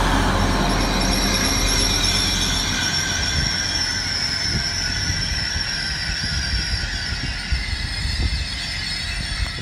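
Class 180 diesel multiple unit running past, a rumble with a steady high-pitched squeal over it, fading slowly as the train moves away. The deep part of the rumble drops out about three seconds in.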